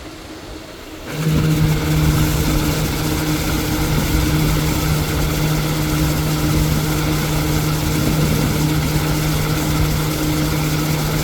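A motor starts about a second in and runs steadily at an unchanging pitch, with a steady hum over a rushing noise.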